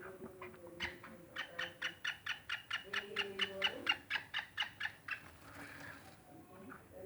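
Black francolin calling: a fast, even run of sharp clicking notes, about five a second, that stops about five seconds in.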